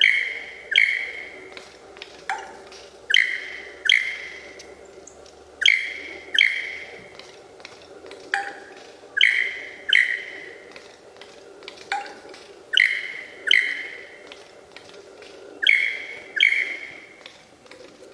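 A bird calling over and over with short, loud notes that start sharply and drop in pitch. The notes mostly come in pairs, a new pair every two or three seconds, over a faint steady hum.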